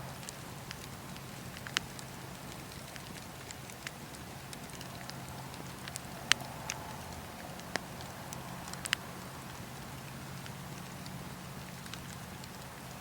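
Campfire crackling: a steady low rush of burning with scattered sharp pops and snaps, the loudest about six seconds in.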